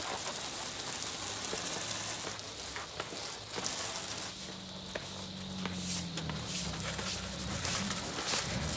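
A car engine running, with a steady hiss of street noise and scattered small clicks; the engine's low hum grows stronger about halfway through and eases off a little near the end.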